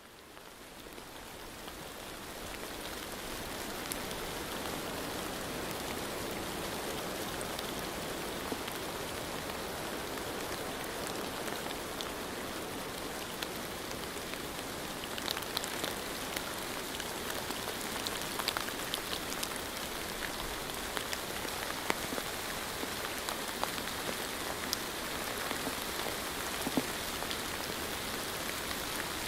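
Steady rain falling, fading in over the first few seconds, with scattered sharp drops ticking on top, more of them in the second half.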